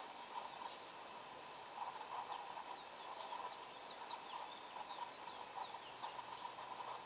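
Faint outdoor ambience: a steady hiss with distant birds calling, including a run of quick high chirps in the middle.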